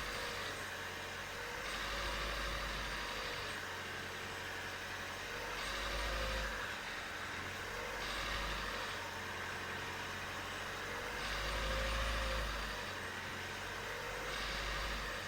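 Renault Mégane II 1.5 dCi four-cylinder turbodiesel running, its revs rising and falling every few seconds. The owner hears a metallic noise from the engine between 1500 and 2000 rpm, its source not yet identified.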